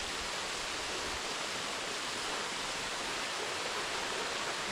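Steady rush of flowing water at a trout hatchery, an even hiss with no breaks.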